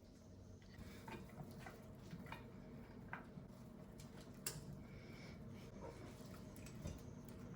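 Faint kitchen handling: scattered light clicks and taps, about one a second with a sharper tap about four and a half seconds in, over a low steady hum.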